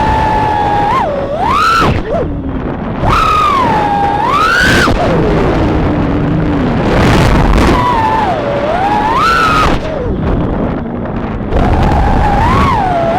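A 3-inch FPV quadcopter's brushless motors whining, the pitch swinging up and down again and again as the throttle is worked, with rough wind noise underneath.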